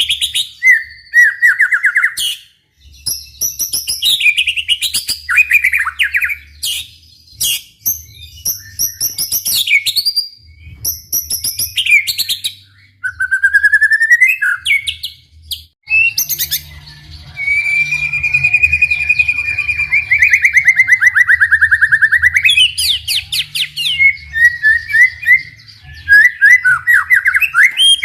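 White-rumped shama singing continuously in varied whistled phrases, pitch sweeps and rapid trills. In the second half it holds one long, even trill for about five seconds.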